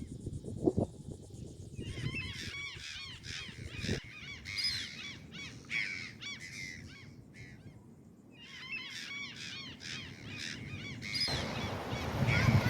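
Birds calling in rapid series of short, arched calls, over and over, above a low rushing noise of wind or surf that grows louder near the end.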